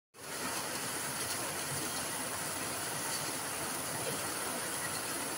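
Heavy rain pouring steadily onto palms and leafy garden plants: a dense, even hiss that fades in over the first half second.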